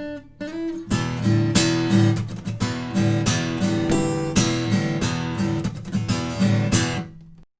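Loha GA20 acoustic guitar played: a few single picked notes, then chords strummed in a steady rhythm from about a second in. The strumming stops about seven seconds in, and the sound cuts off abruptly soon after.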